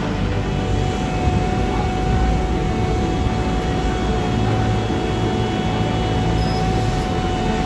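Steady, loud low rumble of a running vehicle, with a single steady whine held over it.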